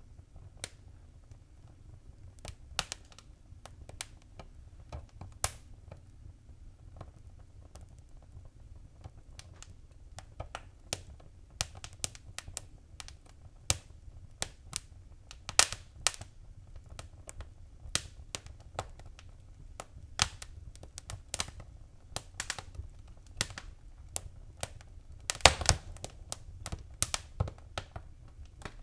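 Wood fire crackling in a fireplace: irregular sharp pops and snaps over a low steady rumble. The pops come more often in the second half, with a quick cluster of loud ones near the end.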